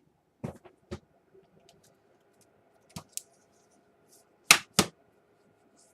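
Sharp plastic clicks and snaps of a laptop keyboard being pried and handled: a few light clicks, then two loud snaps about a third of a second apart late on.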